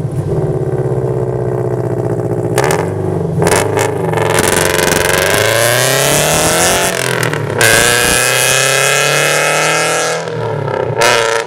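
Scion FR-S flat-four engine running loud through a free-flowing header-back performance exhaust with resonator. It runs steadily, then climbs in pitch as it accelerates, with a brief break about seven and a half seconds in before pulling again.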